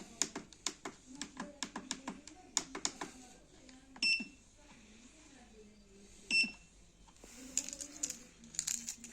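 Repeated clicking of buttons being pressed on a Chinese diesel heater's controls, with two short high beeps from the unit, one about four seconds in and one a little after six seconds, as settings are tried without success. A low voice murmurs underneath.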